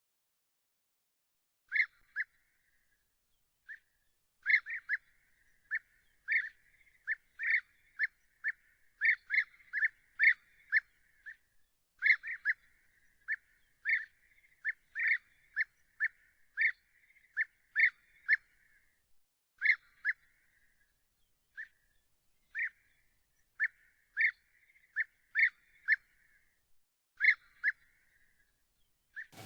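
A bird calling over and over in short, sharp, high notes, one or two a second and sometimes in quick pairs, starting about two seconds in.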